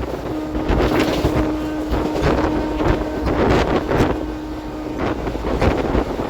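Moving Indian Railways express coach heard from a window seat: wheels running and knocking over the rail joints, with wind buffeting the microphone. A steady low hum runs underneath and stops about five seconds in.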